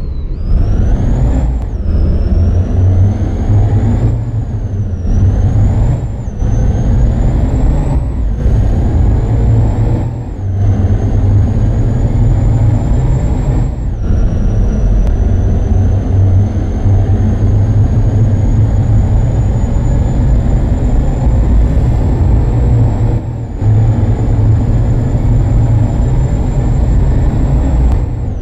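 Truck engine accelerating up through the gears: a whine rises in each gear and drops back at each shift, with a short dip in the engine sound at every change. The shifts come every second or two at first, then further apart, with the top gears held for several seconds each.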